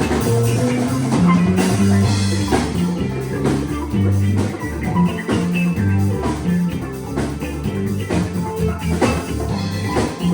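A band playing rock music: guitar over a drum kit, with held low notes that change about every half second or so.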